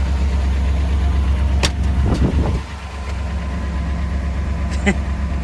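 Mercedes W126 SEC V8 engine idling steadily, running again on its new fuel pump. A couple of sharp clicks come through, and the idle dips slightly in loudness partway through.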